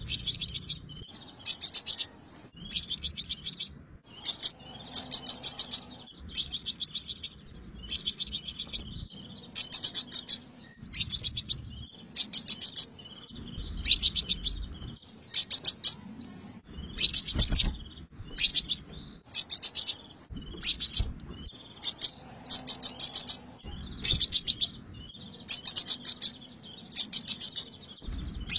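Sunbird (the red 'xác pháo' sunbird) singing a lure call: short bursts of rapid, high, ticking trills repeated about once a second with brief pauses between.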